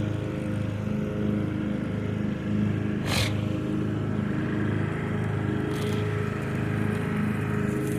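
Craftsman riding lawn mower engine running steadily under mowing load, its low note pulsing slowly and regularly, with one short sharp sound about three seconds in.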